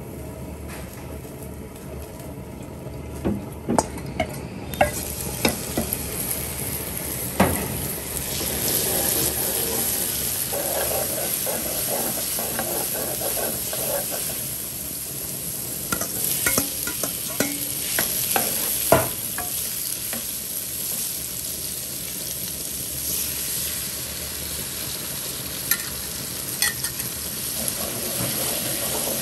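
Minced garlic and chili sizzling in hot oil in a wok, with a metal ladle stirring and clinking sharply against the pan now and then; the sizzle grows louder about five seconds in. Sliced conch meat is then stir-fried in the same oil.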